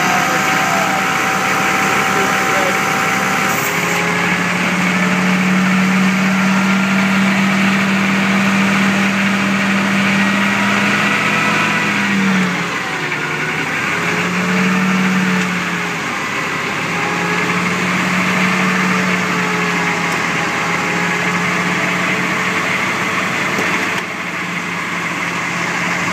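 A 6.2-litre diesel engine runs the truck's PTO generator on automatic throttle control, with a small electric air compressor running as the load. Its pitch shifts several times as the load changes, dipping about halfway through.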